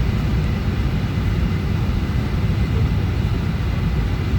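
Steady cabin noise inside a Boeing 737-800 airliner: a constant low rumble with an even hiss over it.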